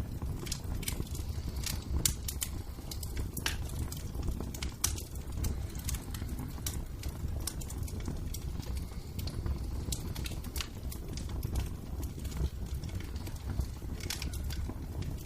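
Fireplace fire crackling: irregular sharp pops and snaps over a steady low rumble of flame.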